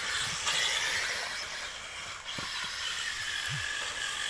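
1/10-scale front-wheel-drive RC rally cars running on a dirt track: a high whine of the motors and gears that rises and falls as they accelerate and back off, over a hiss of tyres on loose dirt.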